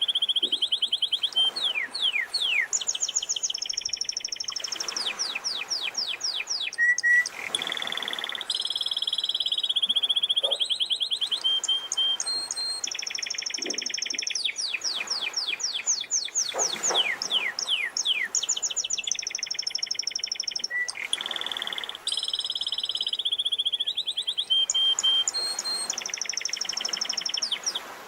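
Domestic canary singing a long, continuous song: rolling trills, held whistled notes and quick runs of falling notes, with the phrases repeating. The song stops near the end.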